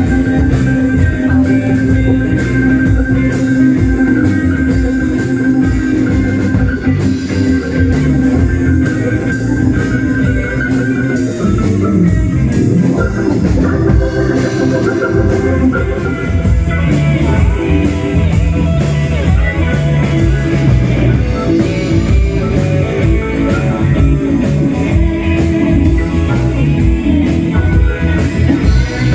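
Blues band playing live, with guitar over a drum kit keeping a steady beat. A long note is held for about the first eleven seconds before the guitar part moves on.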